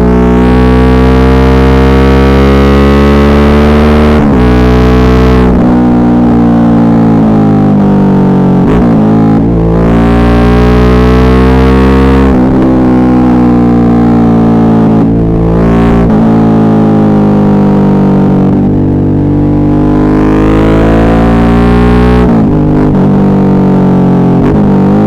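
Suzuki V-Strom 650's V-twin engine pulling under load, its pitch climbing and then dropping sharply several times as the throttle is rolled off or gears change. It is recorded very loud, close to clipping.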